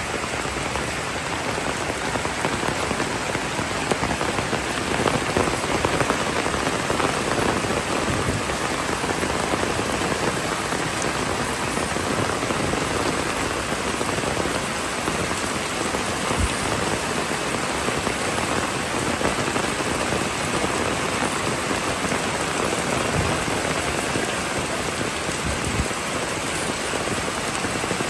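Steady rainfall: an even, continuous hiss of rain falling on a street.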